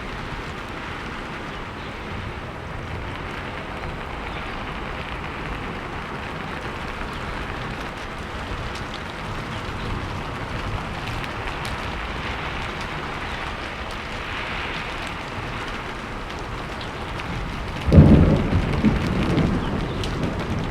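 Steady rain falling in an even hiss. Near the end a sudden loud thunderclap breaks in and rolls off into a low rumble.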